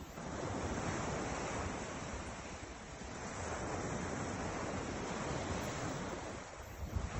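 Ocean surf washing in: two swells of rushing noise, each building and then easing, with some wind on the microphone.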